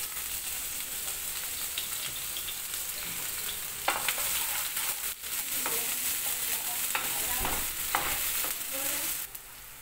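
Sliced green onions sizzling in hot vegetable oil in a frying pan. A wooden spatula knocks and scrapes against the pan several times as they are stirred. The sizzling falls away abruptly near the end.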